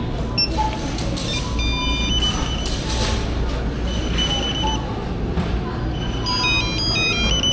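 Electronic beeps and short runs of stepped beep tones from store checkout equipment, several times, over the steady hum and faint voices of a busy store. A quick sequence of tones at different pitches comes near the end.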